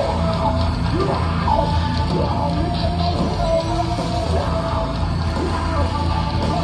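Heavy metal band playing live and loud: distorted guitars, bass and drums, with a voice singing or shouting over them.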